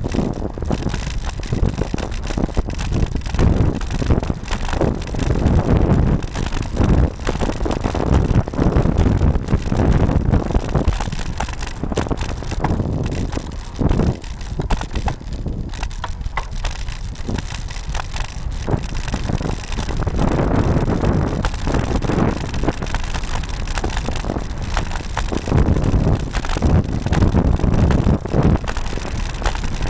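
Wind buffeting the microphone of a bike-mounted camera while riding a road bike, with road and tyre noise underneath, surging and easing every few seconds.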